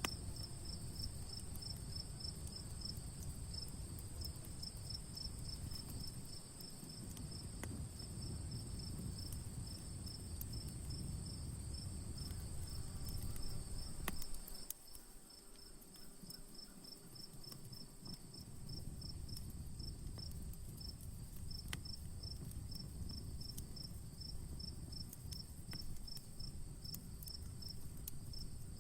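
Crickets chirping in a steady pulsing rhythm, with a continuous higher insect trill above them. Beneath them is a low rumble that drops away for a few seconds midway, and a few faint crackles from a campfire.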